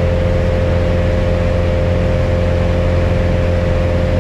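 Steady cabin drone of a Piper Cherokee 180's newly installed four-cylinder Lycoming O-360 engine and propeller in level cruise during break-in, a low drone with a steady whine above it and no change in pitch.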